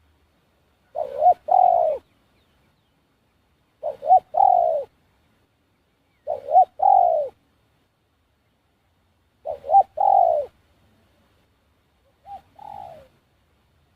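A dove cooing close by: five calls about three seconds apart, each a short clipped note or two followed by a longer falling coo. The last call is fainter.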